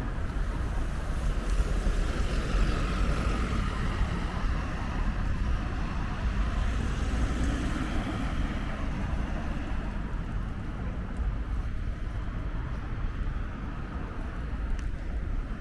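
City street traffic: car tyres and engines in a steady noise, with one vehicle growing louder and passing in the first half. Wind rumbles heavily on the microphone underneath.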